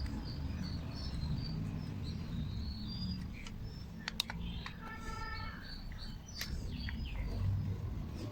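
Birds chirping over a steady low rumble, with a few sharp clicks, about four and six seconds in.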